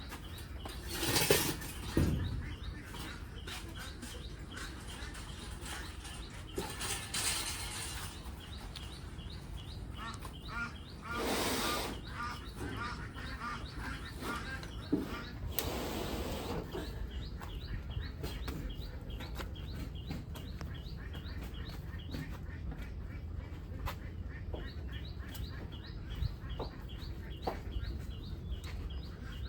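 A flock of ducks calling, with many short high chirping calls throughout. There are a few louder bursts of noise, the biggest about a second in and near the middle.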